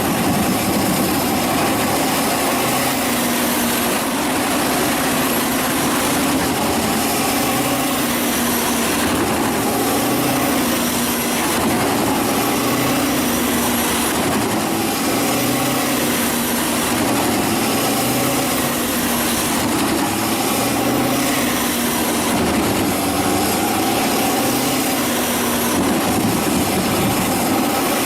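Wood chipper running steadily, its engine and shredding noise loud and continuous.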